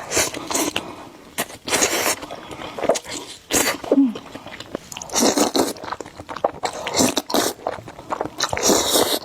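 Close-up eating of spicy noodles: repeated bursts of slurping and chewing, every second or two.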